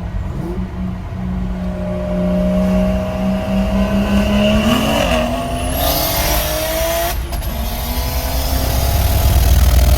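Turbocharged BMW straight-six under hard acceleration in a roll race, its pitch climbing steadily through the revs. A high whistle rises alongside it and cuts off a little after halfway, and a deep rumble swells near the end.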